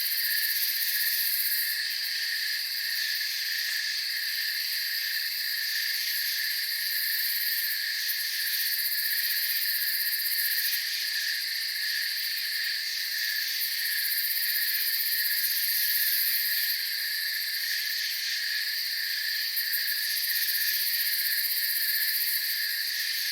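Night insect chorus: crickets trilling steadily in several overlapping high pitches.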